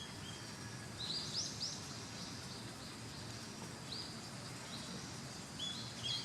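Short, sharp, high-pitched bird calls, each a quick rising note, with a fast run of three or four about a second in and scattered single calls after, over a steady background hiss.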